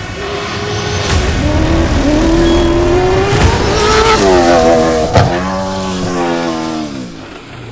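Ford Raptor T1+ rally-raid truck's V8 engine running hard, its pitch climbing through the first half, with a few sharp knocks along the way. From about four seconds in the note falls steadily as the truck slows, and it fades near the end.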